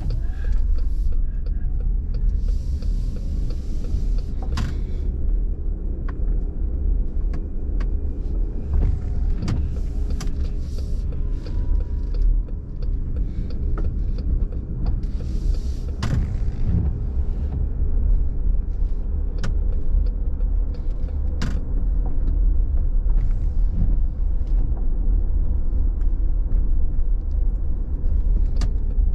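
Cabin noise of a car driving on a rain-wet road: a steady low rumble with tyre hiss. Scattered sharp ticks run through it, and a louder whoosh of spray comes twice, about two seconds in and again around sixteen seconds.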